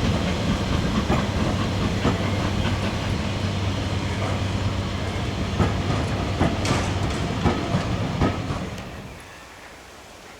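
A heritage train running past, its wheels clicking over the rail joints under a steady low drone. The sound falls away about nine seconds in as the train moves off.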